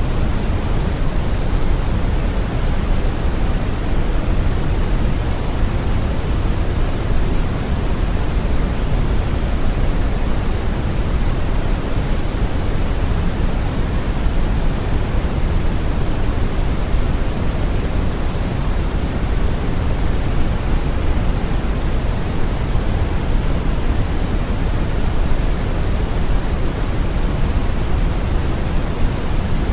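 Steady brown noise: an even, deep rumbling hiss, strongest in the bass and falling away toward the treble, with no change throughout.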